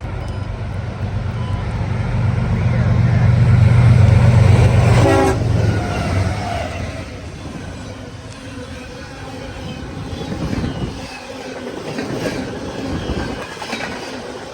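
A freight train led by two CSX diesel-electric locomotives passes close by. The locomotives' low engine rumble builds to its loudest about four seconds in and drops as they go by about a second later. After that come the lighter rolling and clicking of the freight cars' wheels on the rails.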